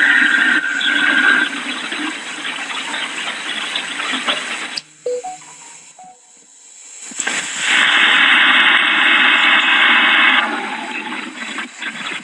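Hurricane wind gusting: a loud rushing hiss that dies down for about two seconds in the middle, then surges back hard for about three seconds before easing off.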